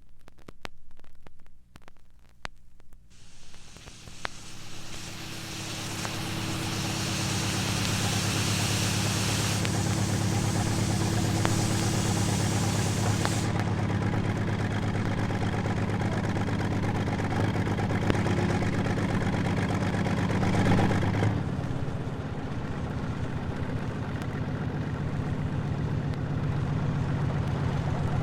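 A motor vehicle's engine starting after a few clicks, then running steadily. About 21 seconds in it settles into a lower, steady idle.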